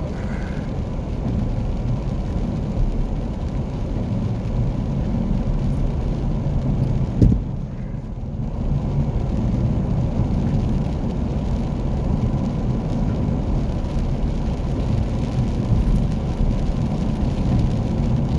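Car driving, with the steady rumble of engine and tyres on the road. A single thump comes about seven seconds in, followed by a brief dip in the noise.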